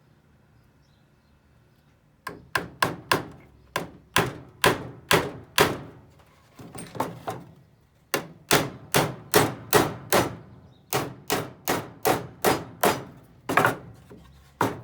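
Hammer driving nails into wood: after a quiet first two seconds, runs of sharp strikes at about two to three a second, with short pauses between nails.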